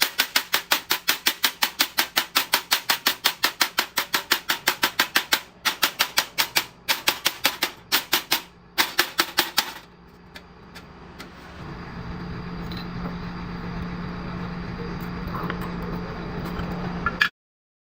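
Fast, even mechanical knocking, about five knocks a second, stopping briefly a few times, followed by a machine humming steadily that builds up over a couple of seconds and then cuts off abruptly.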